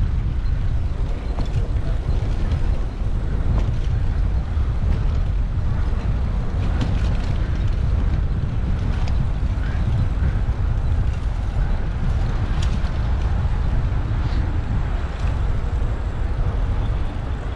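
Steady low rumble of wind on a bike-mounted action camera's microphone and road noise while riding a bicycle through city traffic, with a few light clicks and rattles.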